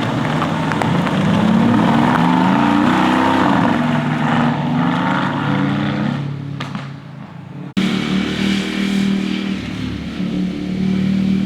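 Motorcycle engines passing close by, the engine note rising and falling as the bikes rev through a corner. The sound fades out, then cuts suddenly to another motorcycle running past about two-thirds of the way in.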